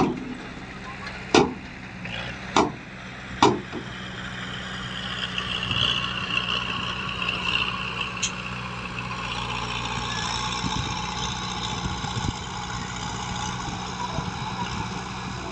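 Diesel engine of heavy earthmoving equipment running steadily, with four sharp loud bangs in the first few seconds and a hiss for a few seconds in the middle.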